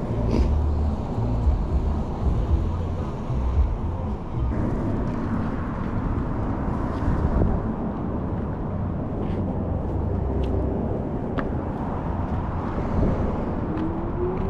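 Wind buffeting the microphone of a GoPro riding on an electric scooter in motion: a steady heavy rumble, with a few faint ticks in the second half.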